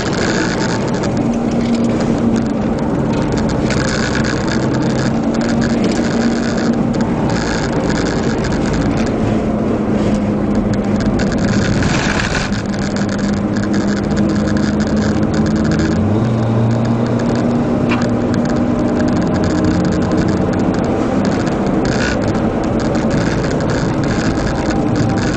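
Mitsubishi race car's engine running hard, heard from inside the cabin over steady wind and road noise. The engine note shifts in pitch a few times as the car works through the gears and corners.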